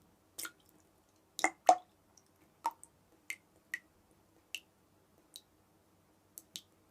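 Water dripping: single drops fall irregularly, about a dozen short plinks with quiet gaps between them. The loudest pair comes about a second and a half in.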